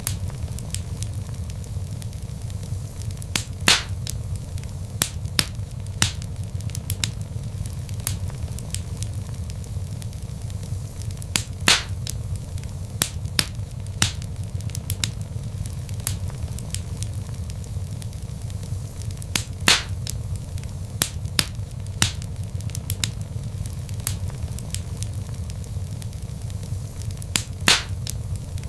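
Wood logs burning in a fireplace: a steady low rumble of flames with frequent sharp crackles and a few louder pops spaced several seconds apart.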